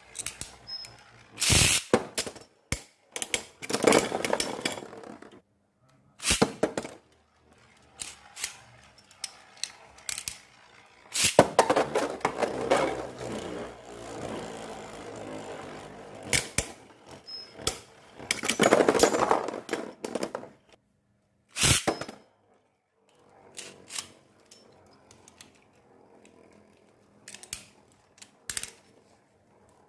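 Beyblade spinning tops, a broken Air Knight against a Single Layer top, battling: several sharp plastic-and-metal clacks and longer stretches of rattling and scraping, with quiet gaps between rounds.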